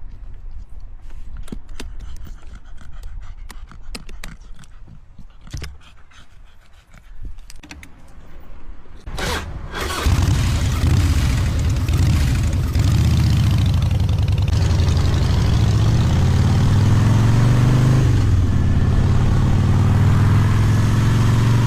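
Scattered light clicks and rustles, then a motorcycle engine starts about nine seconds in and runs loudly, its pitch rising and dipping a few times as it is revved.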